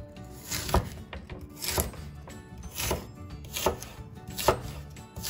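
Kitchen knife slicing raw lotus root into rounds on a wooden cutting board: about five cuts, roughly one a second, each ending in a knock of the blade on the board.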